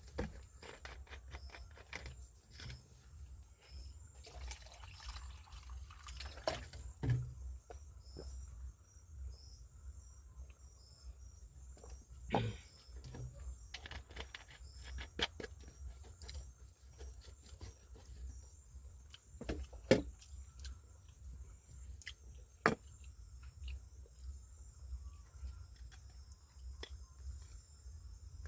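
Night insects singing steadily in a high pitch, with scattered sharp clicks and knocks, a few of them louder, and a low hum underneath.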